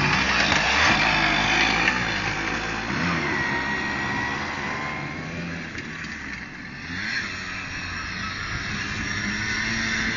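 Small dirt bike engines running and revving, loudest in the first two seconds, easing off about six seconds in, then picking up again with a rising rev.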